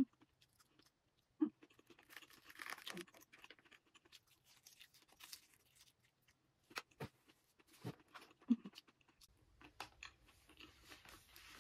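Quiet chewing and mouth sounds of someone eating curry and rice, with scattered light clicks of a plastic spoon against a plastic takeout tray.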